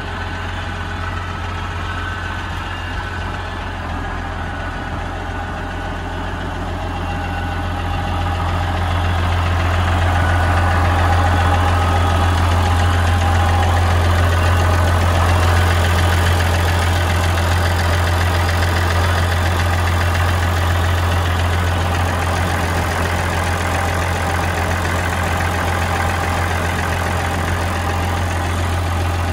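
International 860 tractor's diesel engine running steadily with a deep, even hum, growing louder about a quarter of the way through and holding there.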